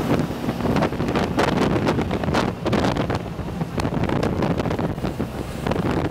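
Wind buffeting the microphone in irregular gusts on a jet boat travelling at speed, with the boat's engine running steadily underneath.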